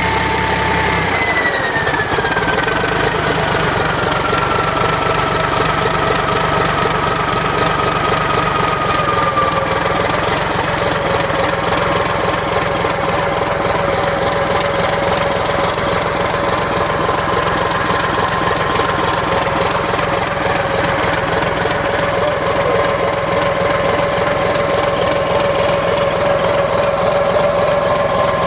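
Caterpillar 3406C inline-six diesel engine from a D8R dozer running on test. About a second in the engine speed drops: its whine falls slowly over several seconds and then holds steady at a lower speed.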